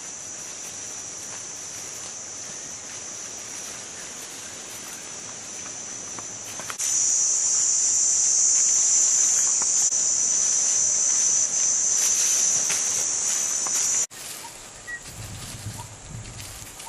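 Steady, high-pitched insect chorus, cicada-like, that grows suddenly louder about seven seconds in and cuts off abruptly a few seconds before the end.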